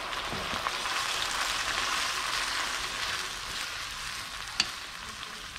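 Canned diced tomatoes and yellow bell pepper strips sizzling in hot oil in a wok while being stirred with a spoon. The sizzle eases off a little in the second half as the tomatoes cool the pan, and there is one sharp click about four and a half seconds in.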